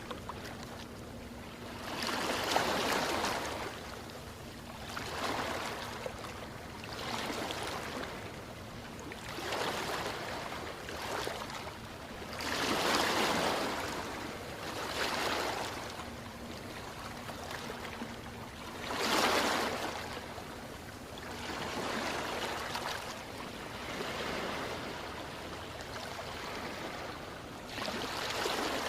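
Ocean waves washing in, surging and receding every two to three seconds over a steady background rush; the biggest surges come about 2, 13 and 19 seconds in.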